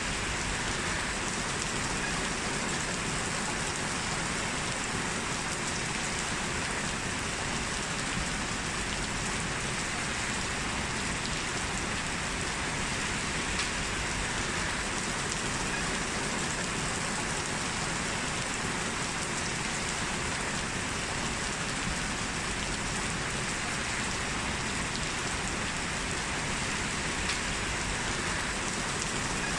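Heavy rain falling steadily, an even unbroken hiss of rain on surfaces with no thunder or other events.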